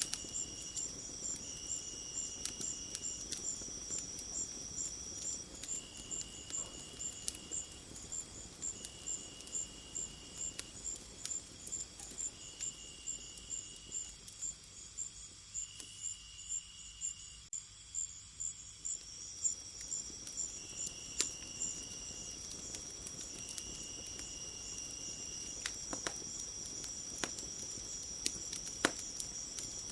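Crickets and other insects chirping in a layered chorus: a high chirp repeating about twice a second, a steady high trill that drops out for a while in the middle and comes back, and a lower buzzing call repeating every couple of seconds. Faint scattered clicks run underneath.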